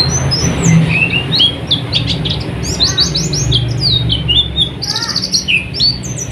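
White-eye (pleci) singing a fast, continuous chattering song of short, high chirps and slurred notes, one after another without a pause. A steady low hum runs underneath.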